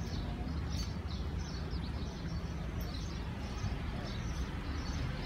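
Small birds chirping repeatedly, two or three short high chirps a second, over a steady low outdoor rumble.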